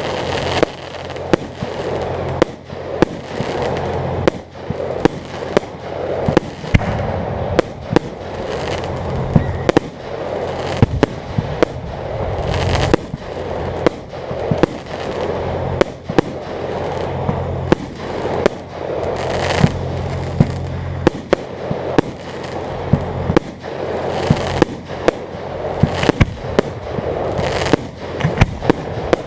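Aerial fireworks display: a continuous barrage of shell bursts, dozens of sharp bangs at irregular intervals, with crackling between them and a low steady hum underneath.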